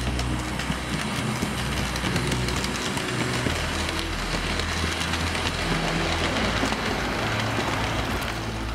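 Passenger train running on its track: a steady noise of wheels on rails peppered with small clicks, which stops suddenly near the end. Low sustained keyboard notes sound underneath.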